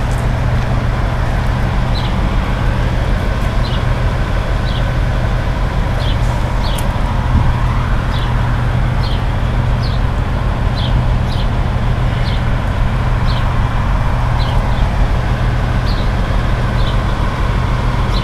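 Steady low hum of idling engines and road traffic, with short high chirps recurring about once a second.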